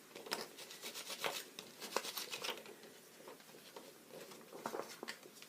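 Rubbing, rustling and scattered light clicks as craft materials are handled on a tabletop.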